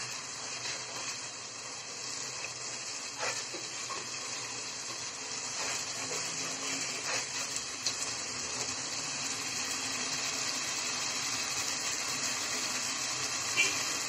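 Spice paste for a curry sizzling steadily in oil and a little water in a pot while it is fried down, with a wooden spatula stirring through it and knocking faintly against the pot a few times.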